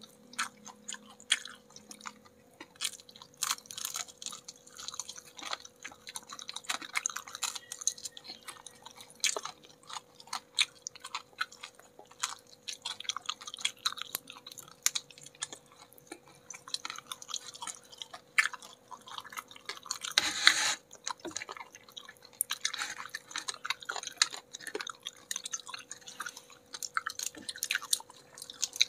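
Close-up chewing and biting of crispy battered fried chicken wings by two people: a dense, irregular run of sharp crunches and mouth clicks, with one louder crunch about two-thirds of the way through. A faint steady hum runs underneath.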